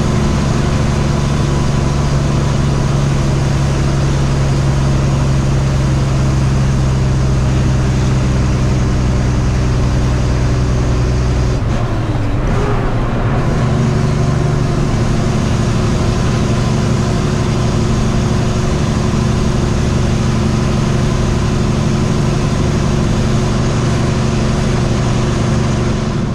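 Semi-truck's diesel engine running steadily under load, heard from inside the cab. The engine note changes about twelve seconds in, then carries on steadily.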